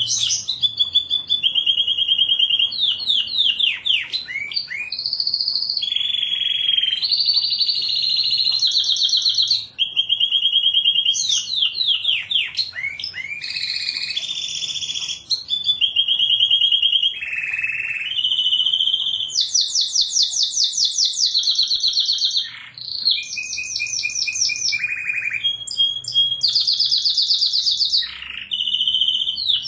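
Domestic canary singing a continuous song of rapid trills and rolls, each phrase held for a second or two before switching to a new pitch, with quick downward-sweeping notes in between.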